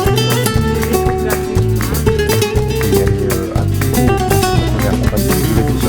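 Music: plucked and strummed acoustic guitar in a flamenco style over a steady bass line.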